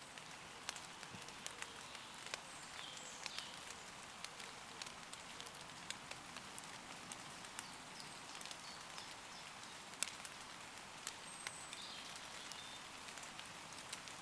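Light rain falling on leaves: a steady patter with many single drops ticking, the sharpest about ten seconds in. Faint short bird calls come in a few seconds in and again near the end.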